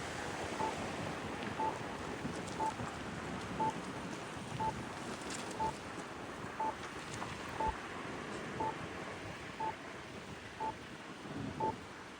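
A short electronic beep, one steady pitch, repeating evenly about once a second over outdoor wind and traffic noise.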